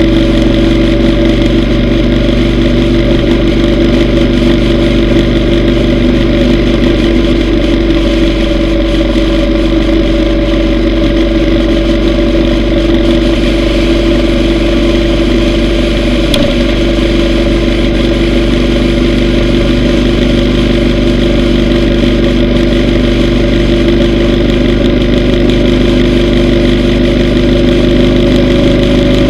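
Yamaha V Star 950's air-cooled V-twin engine running at a steady, unchanging pitch while the motorcycle cruises.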